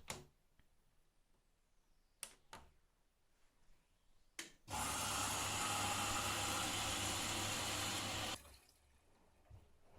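Candy GrandO Plus washing machine: a few sharp clicks, then water rushing in through the inlet valve as the drum fills, a steady hiss with a low mains hum that starts abruptly about halfway through and cuts off sharply after about three and a half seconds.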